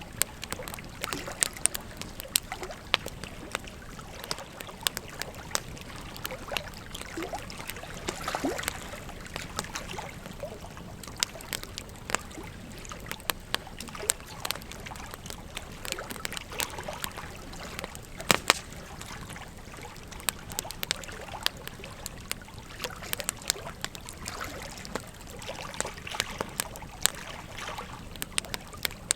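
Wood fire crackling with frequent, irregular sharp pops, one louder than the rest about two-thirds of the way through, over the steady flow of river water.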